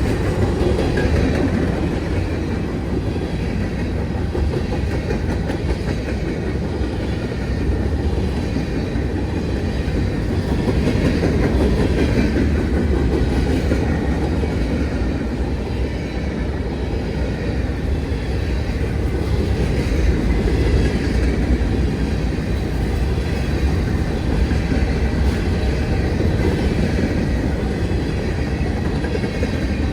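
Freight train cars of an empty grain train rolling past, a steady rumble with the wheels clacking over the rail joints.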